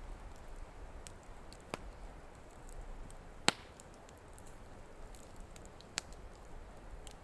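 Wood campfire crackling quietly: about five sharp, separate pops over a soft steady hiss, the loudest about three and a half seconds in.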